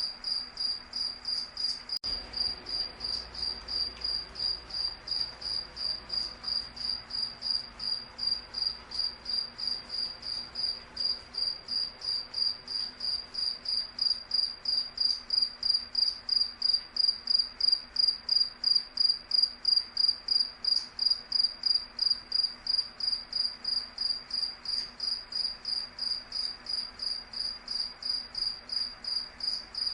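A cricket chirping steadily in an even, high-pitched rhythm of about three chirps a second.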